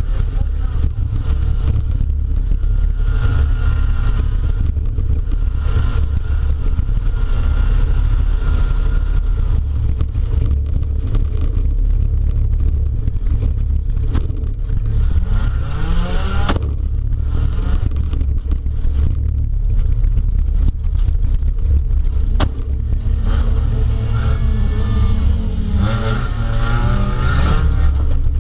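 Speedway derby car's engine heard from inside the cabin over a heavy rumble, revving up and down twice, around the middle and again near the end. Two sharp knocks, one about halfway through and one a few seconds later.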